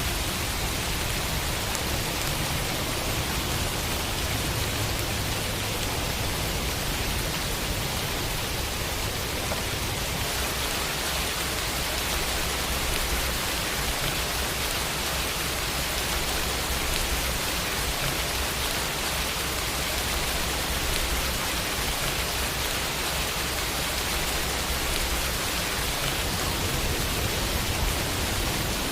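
Steady rain falling and pattering on a window, an even hiss with a low rumble underneath.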